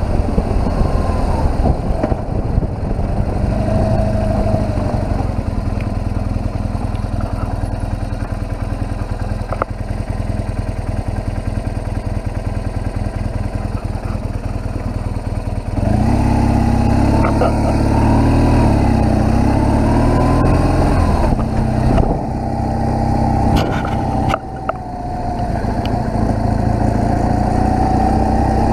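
BMW R1200GS boxer-twin engine running while the motorcycle is ridden. About halfway through it gets louder, the revs rising and falling for several seconds, with a brief dip near the end.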